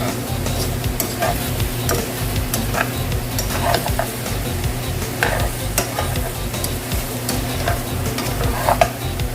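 Chicken frying and sizzling in a pan while it is stirred, a utensil scraping and clicking against the pan now and then, over a steady low hum.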